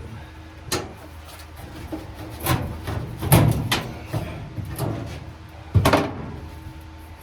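A string of irregular knocks and clunks, about eight in all, bunched in the middle, with the loudest one near the end, over a faint steady hum.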